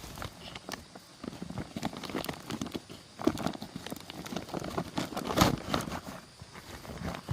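Footsteps on rough ground: a run of irregular knocks and crunches that is densest in the middle.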